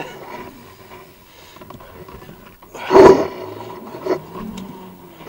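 Stuck off-road vehicle's engine running low, with one short, loud rev about three seconds in as it tries to drive out.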